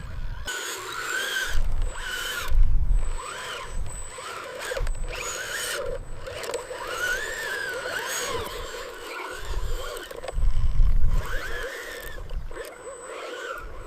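Small electric motors of RC construction machines whining, rising and falling in pitch as they work, with irregular low rumbles and thuds.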